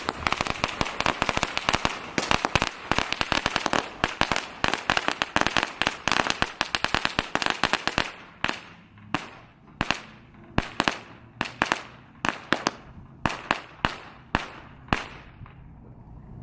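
Firecrackers going off in a rapid string: a dense, fast chatter of sharp bangs for about eight seconds, then thinning to scattered single pops that stop shortly before the end.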